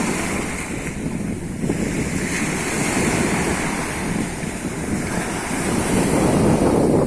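Sea waves washing onto a beach, with wind buffeting the microphone; the surf grows louder toward the end.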